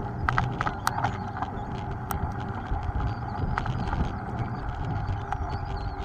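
Mountain bike being ridden over rough ground, with frequent irregular rattles and knocks over a steady rumble of wind and tyre noise.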